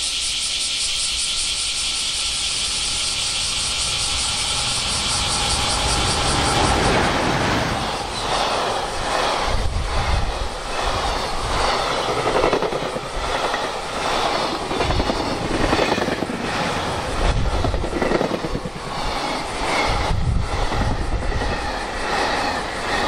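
Loud chorus of cicadas, then a freight train hauled by an EF510 electric locomotive comes past close by about seven seconds in. Its long string of container wagons runs by, the wheels clacking over the rail joints in repeated groups of thuds, while the cicadas carry on behind.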